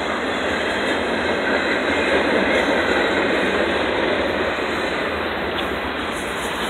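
Double-stack intermodal freight train passing at speed: a loud, steady noise of steel wheels rolling on the rails under the container well cars.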